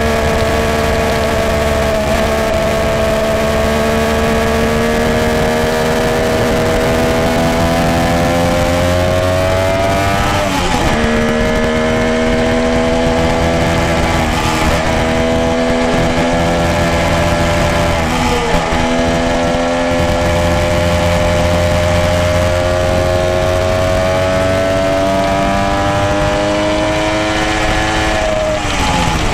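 Motorcycle engine and exhaust under way, its pitch climbing slowly and steadily, with brief gear changes about 11, 15 and 19 seconds in, then dropping off sharply near the end as the throttle closes.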